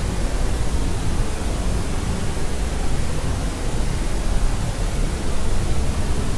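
Steady white-type noise: an even, unbroken hiss weighted toward the low end, with no changes.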